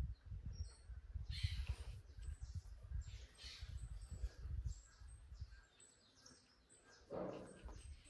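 Small birds chirping in the background: short high chirps repeating throughout. Under them is a low rumble, and there are two brief scraping noises, about a second in and near the end, which fit a knife cutting through the panettone's set chocolate coating.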